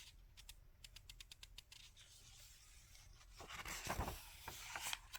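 Faint rustle of a paper book page being handled and turned, preceded by a few light ticks.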